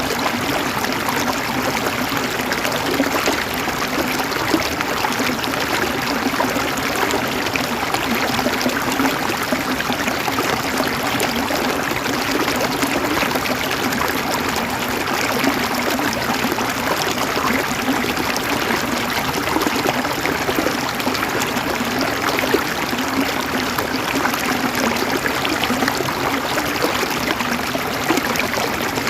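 A river running over rocks: a steady rush of flowing water with fine gurgling and splashing.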